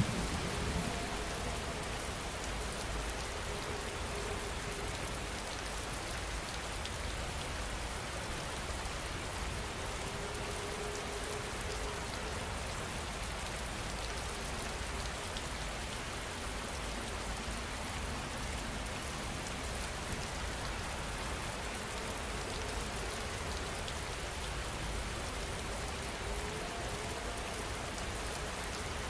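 Steady heavy rainfall, drops pattering on a surface, at an even level throughout.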